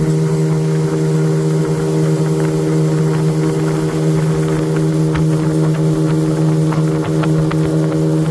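Suzuki 20 hp outboard motor running at a steady speed, its pitch holding constant throughout.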